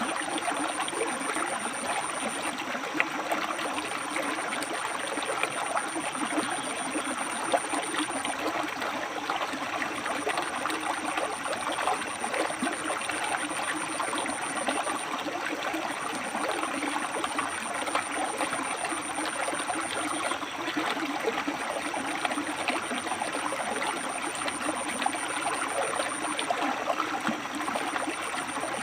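River water flowing over and between rocks: a steady rush and babble, peppered with small splashes.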